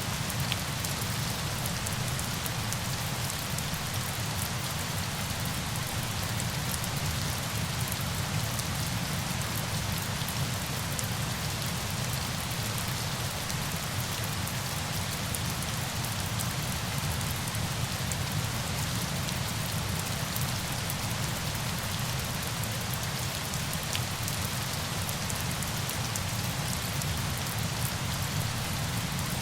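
Steady noise of falling water with a fine patter of individual drops throughout, as in a rain and waterfall sleep ambience.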